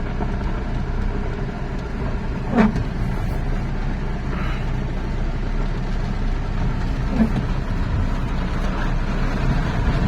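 Inside a Hyundai Grand i10 Nios driving through heavy rain: steady engine and wet-road tyre noise mixed with rain on the car. There is one short knock about two and a half seconds in.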